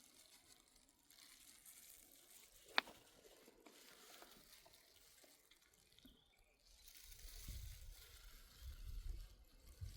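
Near silence, with a single sharp click a little under three seconds in and a faint low rumble in the last few seconds.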